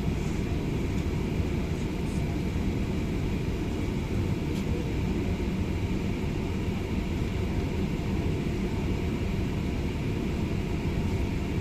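Steady airliner cabin noise: a constant low drone from the engines and airflow heard inside the passenger cabin, with a faint steady whine above it.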